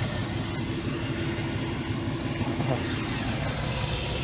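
Freshly installed replacement engine in a Chevy Express van running at idle with a misfire. The owner suspects the spark plugs reused from the old engine.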